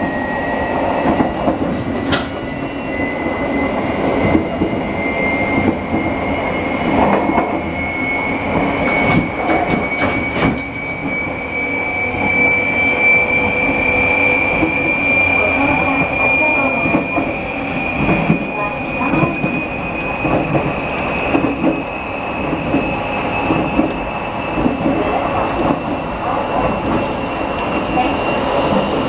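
JR Shikoku 8600 series electric train running, heard at the coupling between two units: a continuous rumble of wheels on rail under a high whine that slowly rises in pitch as the train gathers speed. A few sharp clicks come about two, nine and ten seconds in.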